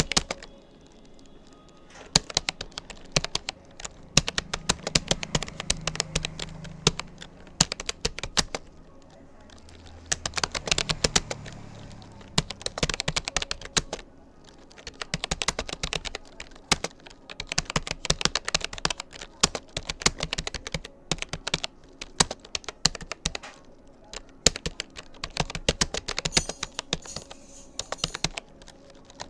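Typing on a Rapoo computer keyboard: rapid runs of key clicks, a few seconds at a time, broken by short pauses of about a second.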